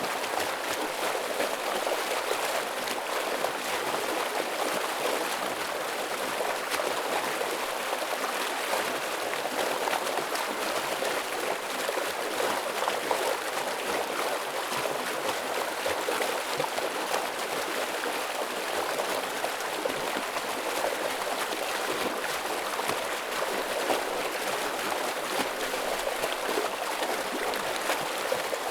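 Forest stream flowing heavily: a steady, dense rush of water with fine splashing and gurgling, unchanging throughout.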